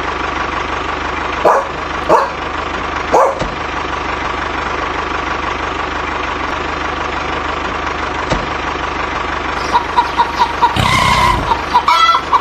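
A steady engine drone with three short barks in the first few seconds, then a quick run of short beeps and clatter over the last few seconds.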